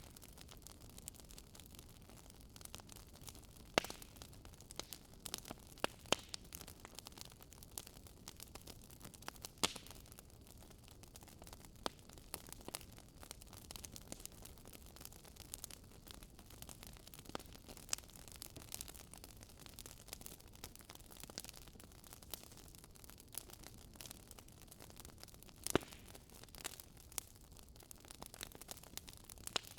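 Campfire burning, with constant small crackles and a few louder pops of the wood over a faint low rush of the flames.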